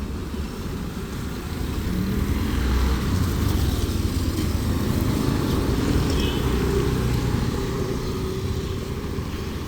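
Motor traffic on the road: a vehicle's engine rumble growing louder about two seconds in and fading again as it passes by.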